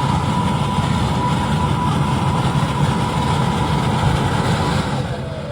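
Tractor-driven double-fan airblast sprayer running: a steady engine and fan rush with a thin, steady whine over it, fading near the end.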